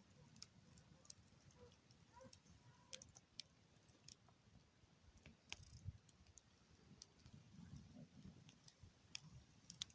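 Near silence: faint scattered clicks and a faint low rumble.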